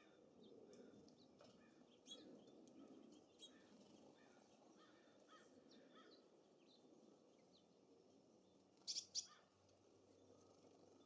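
Small birds at a feeder giving faint chirps and ticks throughout, with two loud, sharp calls in quick succession about nine seconds in, over a low, steady wind rumble.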